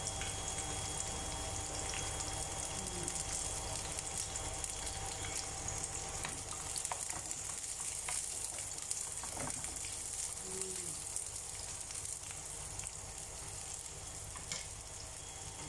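Sliced red onion and garlic sizzling in hot oil in a frying pan, a steady hiss with fine scattered crackles, as they are stirred.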